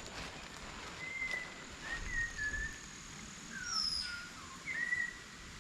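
Wild birds chirping in short whistled notes, some sliding up and some down in pitch, coming every second or so, with a thin steady high tone behind them.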